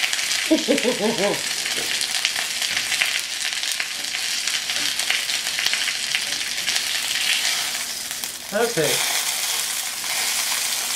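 Marinated chicken pieces frying in hot oil in a ridged grill pan: a steady sizzle with crackling pops.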